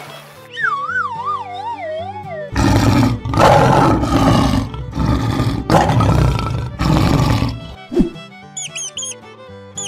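Lion roaring, a run of several loud roars lasting about five seconds, over children's background music. Before the roars there is a wobbling, falling cartoon whistle; after them, a sharp click and quick high squeaks near the end.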